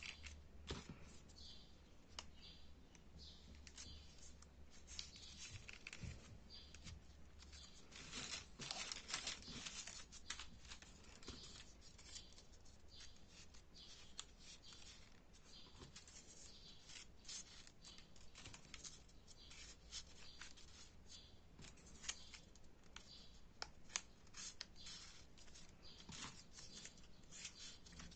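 Faint paper rustling and scratching, with many small clicks, as folded paper triangle units are handled and slid into place in a 3D origami model.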